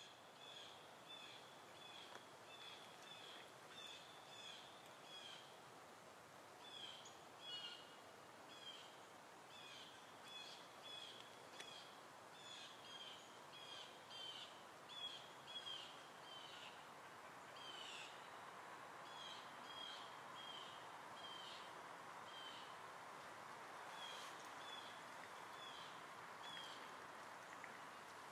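Faint birdsong over a quiet outdoor hiss: a small bird repeating short high chirps, several a second, in runs broken by brief pauses.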